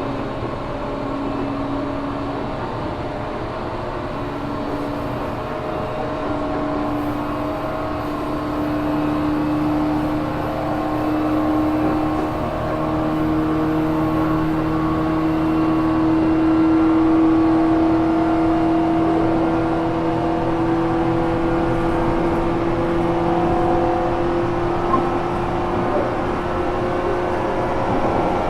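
Running sound inside a JR 415 series 1500-subseries motor car (MoHa 414-1513): the whine of the traction motors and gears, with several pitches climbing slowly as the train gathers speed, over the steady rumble of the running gear. This is the car labelled as having an unusual noise.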